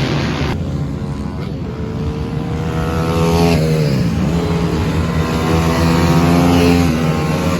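Racing pit bike engine running hard under throttle: its pitch climbs, dips sharply about three and a half seconds in as the throttle is shut for a corner, then climbs again, with other bikes' engines faintly behind it.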